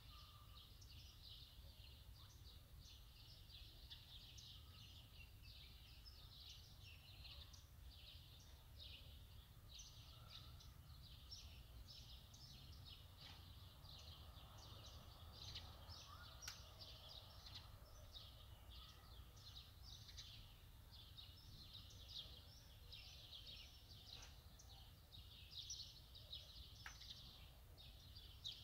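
Faint, dense chirping of small birds, many short high calls overlapping, over a low steady rumble.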